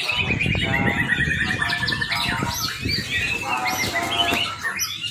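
Young white-rumped shama singing a fast, varied song: a quick trill of repeated notes, then a run of short whistles and sweeping notes.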